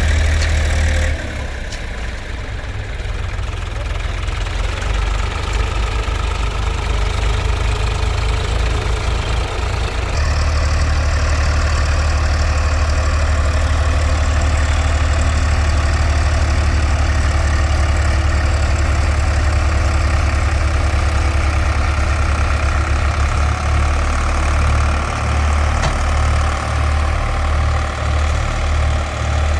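Tractor's diesel engine running with a strong low engine note. It eases off about a second in, picks up again around ten seconds, and in the last few seconds rises and falls in uneven pulses.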